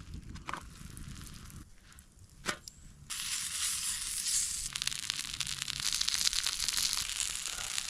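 Food frying on a hot homemade sheet-steel griddle, a dense crackling sizzle that starts abruptly about three seconds in, after a quieter stretch with a few clicks.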